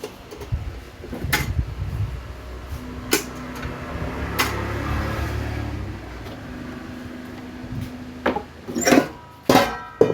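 Handling noises: a few sharp clicks and knocks over a steady low hum, then several loud metallic clanks with a ringing tone near the end.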